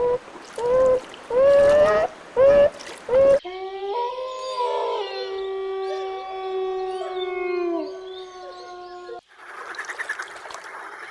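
Crows cawing, about five loud caws, then a cut to a canine howling: one long call that slides in pitch and tails off at the end. Near the end, after another cut, frogs croak in a fast pulsing chorus.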